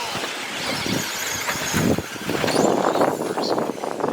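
Radio-controlled 2WD short course trucks racing on a dirt track, their motors rising in pitch as they accelerate, louder in the second half as the trucks pass close by.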